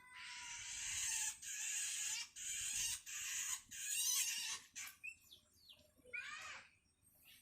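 Long-tailed shrike (cendet) chick giving harsh, rasping begging calls: about five long calls one after another, then a shorter call about six seconds in. It is a hungry fledgling calling for its parent to feed it.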